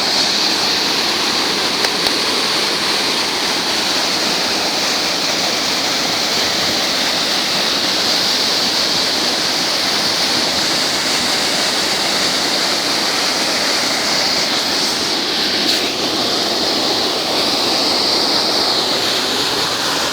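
Rushing river water, a steady loud rush of water flowing over rocks or falling.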